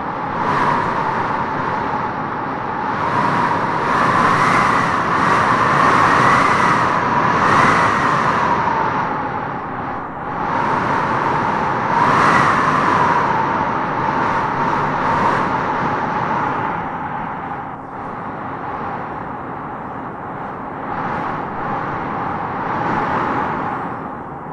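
Strong wind blowing in gusts, with a whistling howl that swells and eases several times. The loudest gusts come in the first half.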